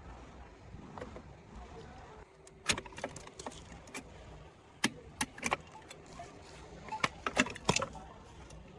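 Irregular sharp clinks and knocks, as of small hard objects being handled, with a quick run of them near the end.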